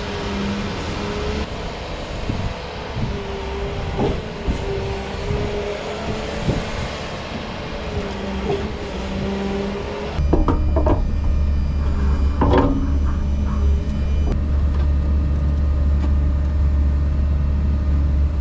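Excavator engine running with hydraulics working, a wavering whine and scattered knocks. About ten seconds in, the sound changes abruptly to a steady deep engine rumble, with a few knocks soon after.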